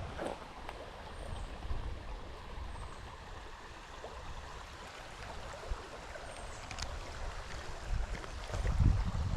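River water running over rocks in a steady rush, with heavier low rumbles of wind on the microphone near the end.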